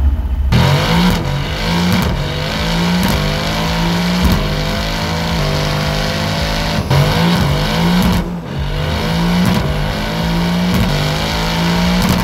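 Mercedes-AMG GT R's twin-turbo V8, breathing through an iPE catless exhaust, revving hard on a chassis dyno. Its pitch climbs steadily through a long pull, breaks off briefly about seven seconds in and again near eight seconds, then climbs once more.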